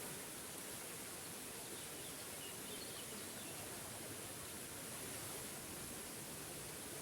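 Waterfall rushing steadily, with faint bird chirps now and then in the first few seconds.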